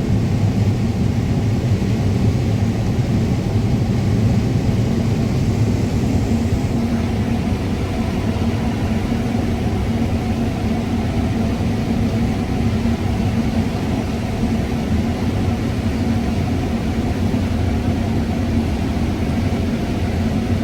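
Combine harvester running steadily while cutting corn: a constant engine and threshing drone heard from inside the cab.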